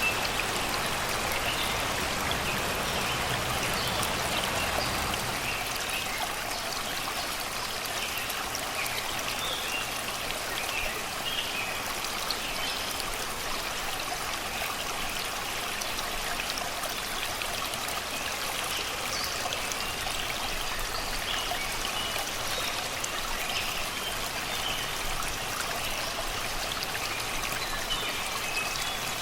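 Shallow river babbling steadily over rocks and stones.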